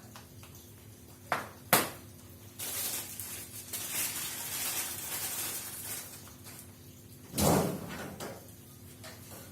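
Kitchen handling noises while food is put away: two sharp clicks about a second and a half in, a few seconds of steady noise, then a heavy thump about two-thirds of the way through, like a door or container being shut.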